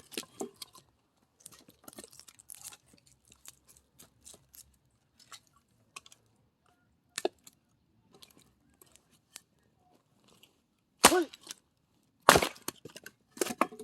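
Axe blows splitting dry firewood: a sharp crack about seven seconds in, then loud strikes near the end, one with a short shout, with light knocks and clatter of wood pieces between.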